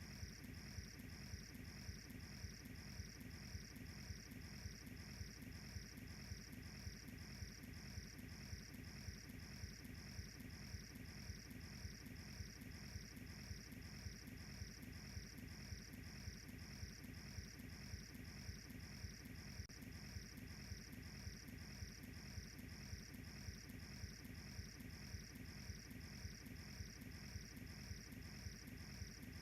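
Crickets chirping in an even rhythm, about two chirps a second, over a wood campfire crackling softly underneath.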